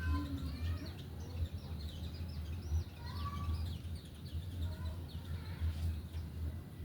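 Many white-eyes chirping, with short, quick calls overlapping one another throughout, over a steady low rumble.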